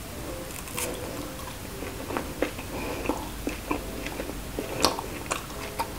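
Close-miked biting and chewing of grilled barbecue meat pulled off a skewer: irregular wet smacks and clicks from the mouth, with the sharpest click a little before the end.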